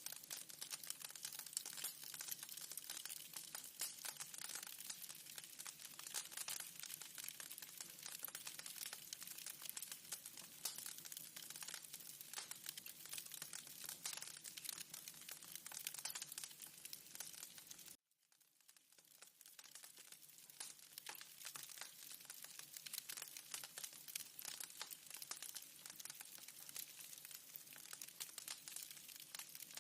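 Wood fire in a fireplace crackling, with a dense run of small pops and snaps over a soft hiss. The sound cuts out abruptly about two-thirds of the way through, then fades back in and crackles on.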